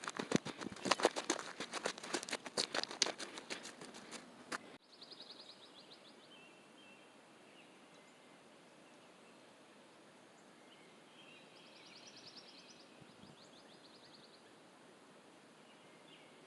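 Rapid clattering knocks for about the first five seconds, cut off abruptly. After that comes faint outdoor background with a small bird trilling twice.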